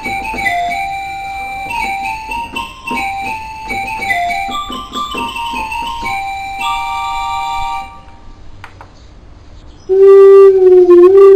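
Electronic keyboard playing a melody in a piano voice, which stops about eight seconds in. After a short pause a much louder sustained lead voice comes in, its pitch bending.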